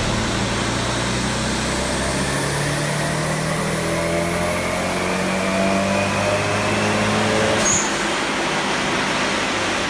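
Car engine under steady load, its pitch rising slowly over several seconds with a rising whine above it. The engine eases off near the end.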